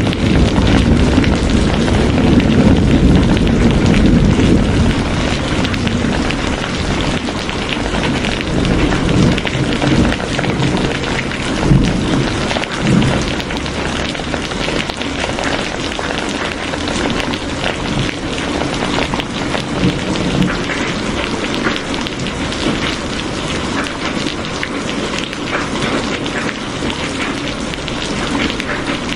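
Steady heavy rain falling, with a low rumble under it that eases off after about six seconds.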